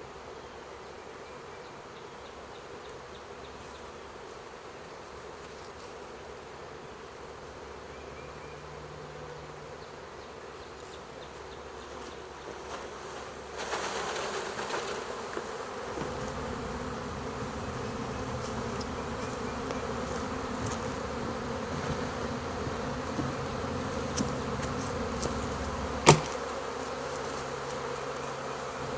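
Honey bee swarm buzzing steadily, many bees at once, growing louder about halfway through. One sharp knock near the end.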